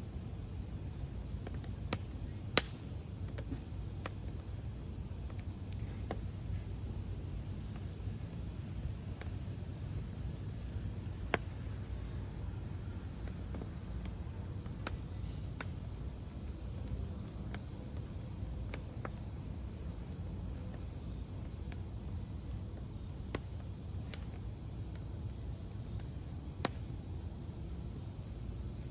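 Crickets chirping in a steady, unbroken high trill over the low rush of a wood campfire, with scattered sharp pops and crackles from the burning logs, a few louder than the rest.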